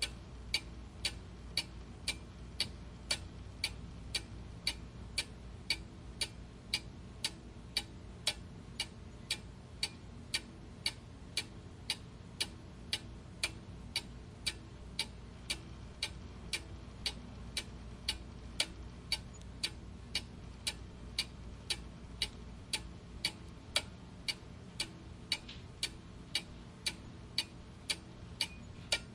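Clock ticking steadily at about two ticks a second, with a faint low hum underneath.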